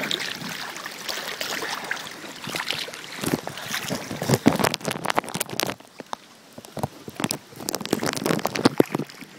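Floodwater sloshing and splashing as a person wades through it chest-deep, with irregular sharp crackles, heard through a phone sealed in a plastic Ziploc bag. It goes quieter for a moment about six seconds in.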